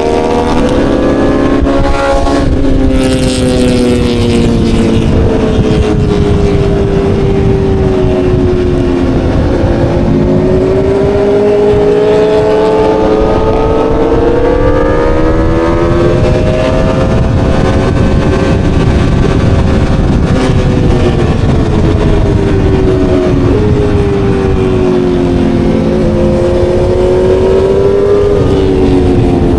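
Aprilia Tuono V4's V4 engine running under the rider at moderate, varying throttle, its pitch rising and falling slowly over several seconds rather than in sharp full-throttle shifts, with heavy wind noise throughout.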